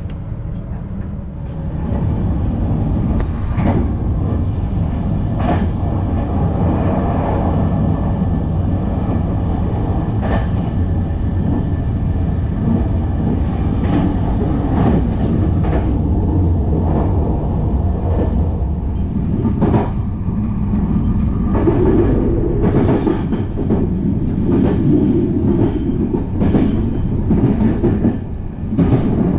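Passenger train running on the rails, heard from on board: a steady rumble with the wheels clicking over rail joints at irregular intervals.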